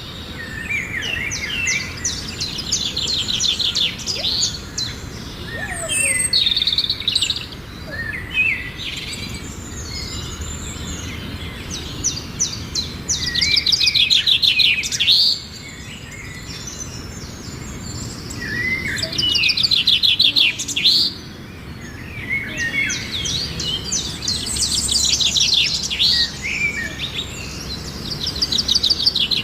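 Songbird singing outdoors: repeated high phrases of rapid trilling notes, each lasting two to three seconds and separated by short pauses, with scattered chirps in between and a low background rumble.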